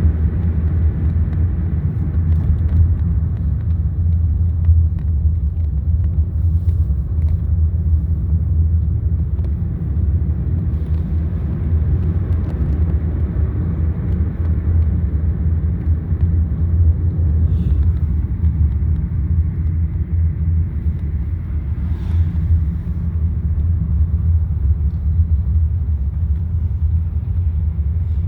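A car driving along: steady low engine and road rumble that holds even throughout.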